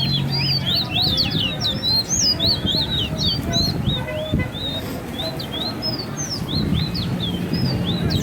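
Caged fire red bird singing in a bird race: a rapid, continuous run of short, sharp, sweeping chirps, thickest in the first few seconds.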